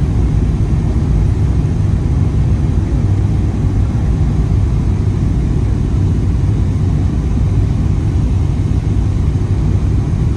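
Steady low rumble of a Boeing 777-300ER's GE90 engines and airflow heard inside the passenger cabin, even in level throughout.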